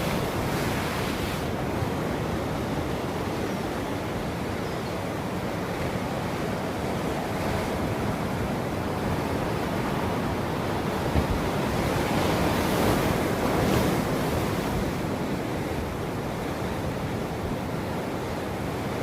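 Ocean surf washing onto a shore in a steady hiss, with a larger wave building and breaking about two-thirds of the way through.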